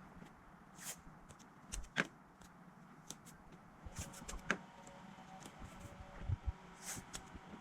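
Scattered sharp knocks and clicks of objects being handled, loudest twice, about two seconds in and again about halfway, with a few dull thumps near the end.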